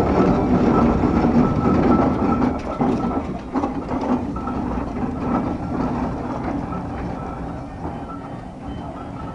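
Steam traction engine running with a steady mechanical clatter, louder for the first two or three seconds and then quieter.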